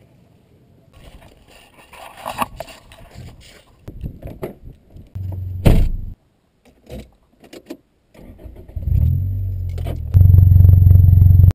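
Keys jangling and clicks, a sharp knock, then a car engine starting about nine seconds in and running loud and steady.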